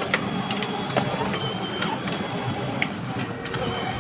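Steady mechanical whirring and rattling, with irregular sharp clicks scattered through it.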